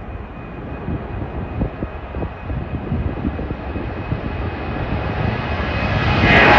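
Jet airliner engines at takeoff power, growing steadily louder as the plane approaches, with a steady high whine over the rumble.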